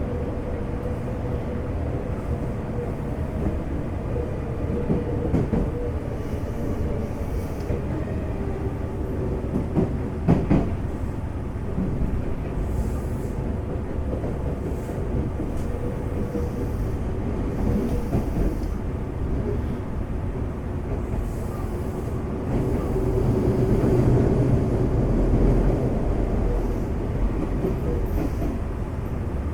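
Interior running sound of a Semboku Rapid Railway 5000 series electric train approaching its final stop: steady wheel and track rumble with a faint steady tone. There is a sharp knock about ten seconds in, and the rumble swells louder for a few seconds near the end.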